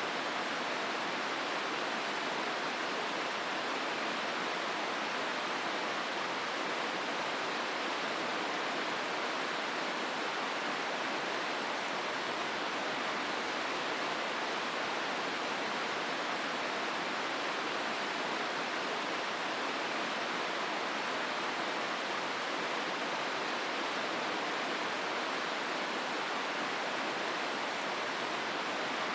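Steady rush of river water through the Hozu gorge, an even hiss with no single splashes or other events standing out.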